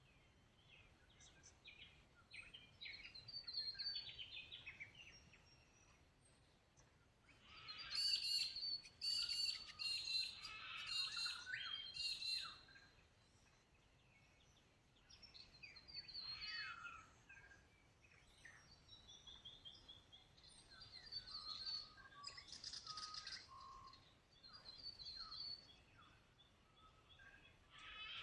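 Birds singing and chirping in bouts of high warbling notes, the loudest bout about eight to twelve seconds in, over faint outdoor background noise.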